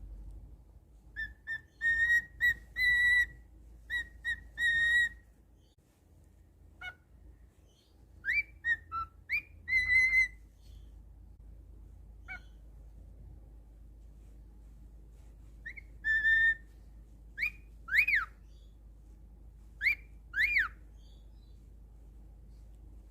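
Cockatiel whistling: runs of short, quick whistled notes in the first few seconds and again around eight to ten seconds in, then a few single whistles that rise and fall, with pauses between.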